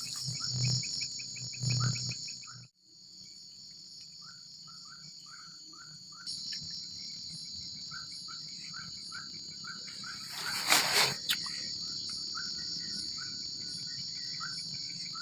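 Night-time forest insect chorus: a steady high-pitched buzzing of crickets, with a short chirp repeating about three times a second. The sound cuts out briefly about three seconds in, and a short noisy burst comes a little past the middle.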